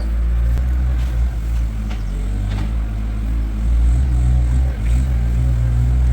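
Skid steer engine running under load, its revs swelling and easing as it shakes straw in its clamp jaws, with a few short knocks and rattles from the loader.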